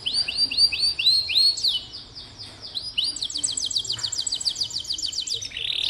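Domestic canary singing: a run of repeated, hooked whistled notes about four a second, then a fast high trill from about three seconds in.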